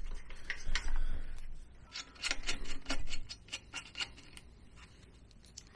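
Rapid metallic clicking from a ratchet wrench working a bolt, a quick run of ticks that thins out and stops about four and a half seconds in.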